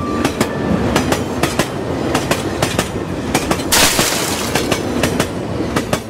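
Passenger train running on the track: a steady rumble with a rapid clickety-clack of wheels over rail joints, and a short burst of hiss about four seconds in.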